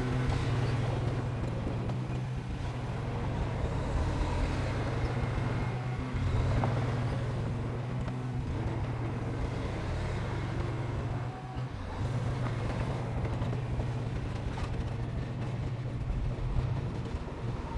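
Diesel engine of heavy earthmoving machinery running steadily with a low drone, dipping briefly about eleven seconds in.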